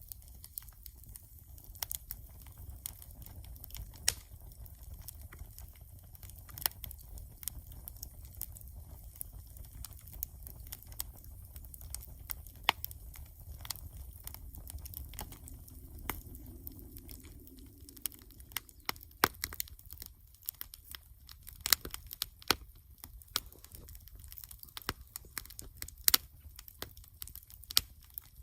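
Wood bonfire crackling: irregular sharp pops and snaps over a low steady rumble, with the pops coming more often in the second half.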